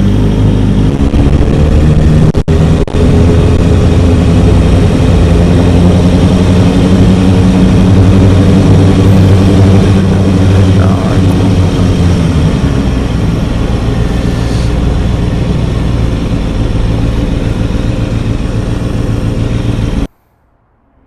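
Kawasaki ZX-6R 636 inline-four motorcycle engine running loud and steady at a fairly constant pitch, with two brief dropouts a couple of seconds in. It cuts off suddenly near the end.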